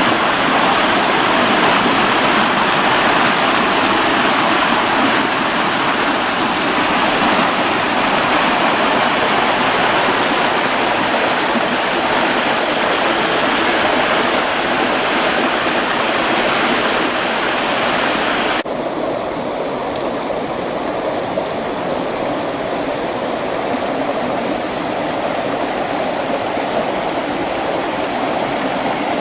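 Creek water rushing and splashing steadily over its bed. About two-thirds of the way through, the sound changes abruptly and becomes less hissy and a little quieter.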